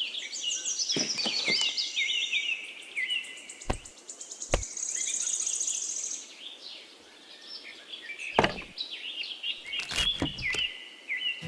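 Several songbirds chirping and singing over one another, with a buzzy trill about halfway through. A few sharp knocks or taps sound among the calls.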